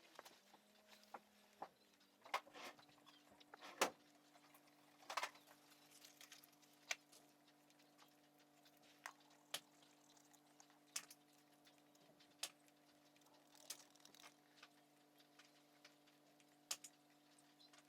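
Scattered light clicks and taps with a few sharper knocks, from small metal tools and brake parts being handled, over a faint steady hum.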